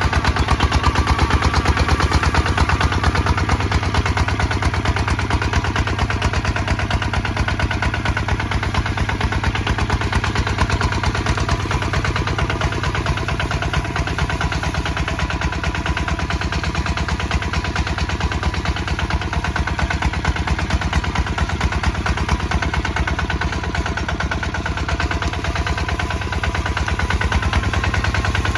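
Kubota ZT 155 DI single-cylinder diesel engine running steadily with a rapid, even chugging, working under load while plowing.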